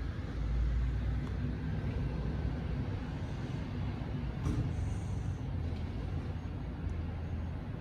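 Diesel engine of a recycling truck running at low revs, a steady low rumble.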